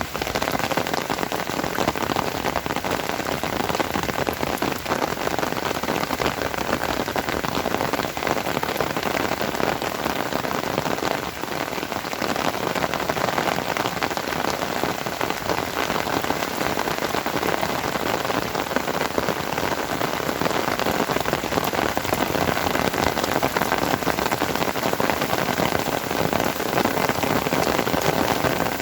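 Steady, heavy rain falling and pattering on surfaces.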